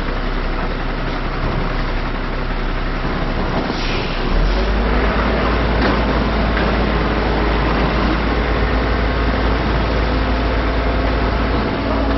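Heavy diesel truck engine running steadily. About four seconds in, its low rumble steps up louder and holds, just after a short hiss.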